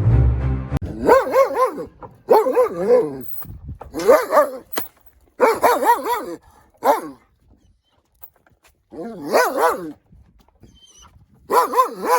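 A dog barking in a series of about seven drawn-out calls whose pitch wavers up and down, with a few seconds' pause before the last two. Music ends just under a second in.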